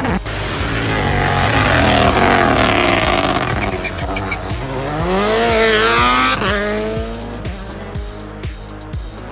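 Rally car engine revving hard, its pitch rising and falling with throttle, with tyre squeal and skidding on the surface. Near the end the engine fades and a steady music beat of about two thumps a second takes over.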